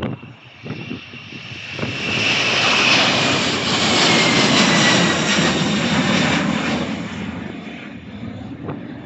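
Airliner passing by: its engine noise swells about two seconds in, stays loud for a few seconds with a high whine that falls in pitch as it goes past, then fades away.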